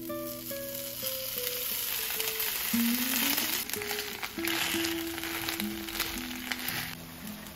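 Shredded potatoes frying in hot olive oil in a frying pan, sizzling. The sizzle builds about a second in as the potatoes land in the oil, with background music playing over it.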